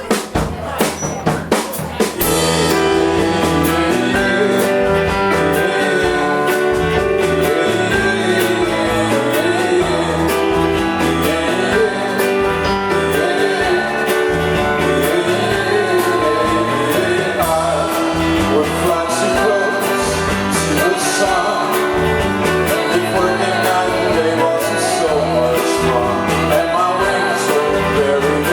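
Live rock band playing: drums alone for the first couple of seconds, then the full band comes in and plays on steadily.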